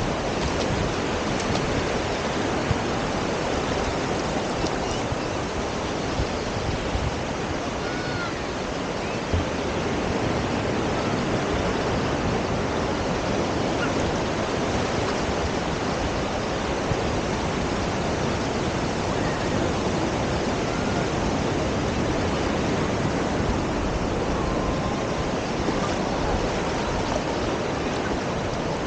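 Ocean surf washing on a beach, a constant even rush mixed with wind.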